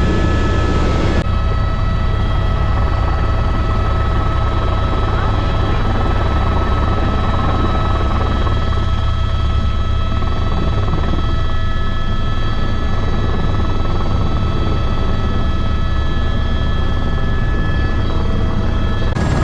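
Helicopter running steadily: a loud, constant low rotor and engine rumble with a steady high turbine whine over it.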